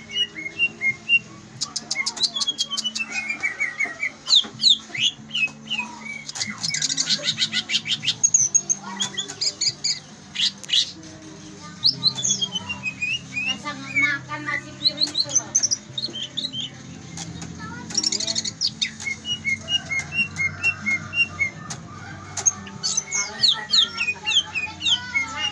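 A songbird singing a long, varied song of whistled glides, rapid trills and quick repeated notes, with short pauses between phrases, over a steady low hum.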